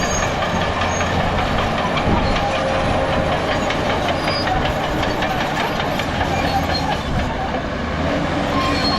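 Crawler bulldozer's diesel engine running steadily while its steel tracks clatter with rapid metallic clicks.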